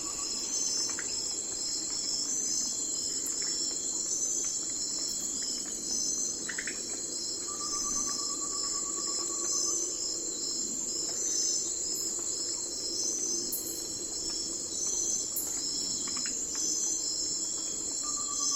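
Night forest ambience: a dense, steady chorus of crickets and other insects with a rapid pulsing high chirp. A lower trill of about two seconds repeats roughly every ten seconds.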